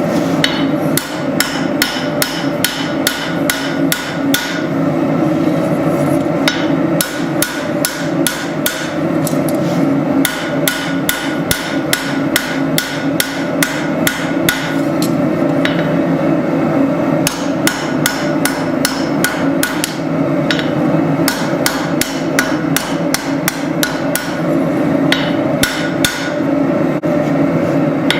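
Hand hammer striking hot spring steel on an anvil while forging a tanto blade: runs of quick blows at about three a second, broken by a few short pauses, over a steady background noise.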